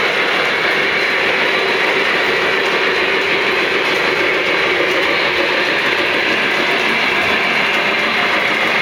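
O scale model train running on three-rail Fastrack: a steady, unbroken rumble and whir of motor and wheels on track.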